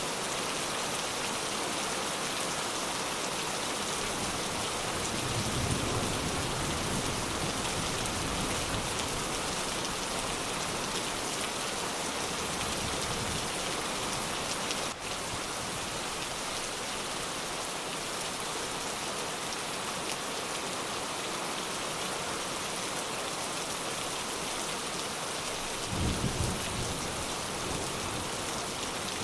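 Steady rain falling, with low rolls of thunder rumbling about five seconds in and again near the end.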